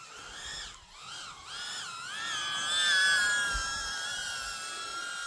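Team Losi RC dirt bike's electric motor whining. The pitch rises and falls with the throttle, peaks about three seconds in, then holds a steady high whine.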